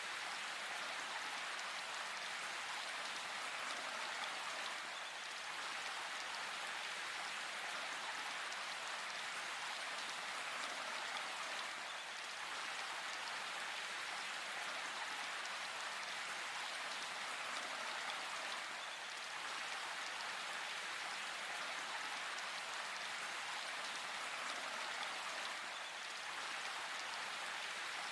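Steady rain falling, an even hiss that holds at the same level throughout with no single drops or thunderclaps standing out.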